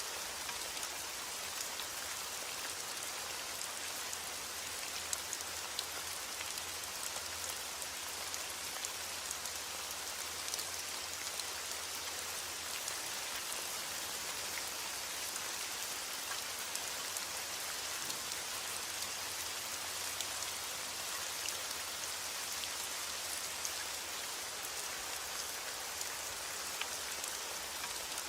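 Steady heavy rain with sharp individual drop ticks scattered through a constant hiss.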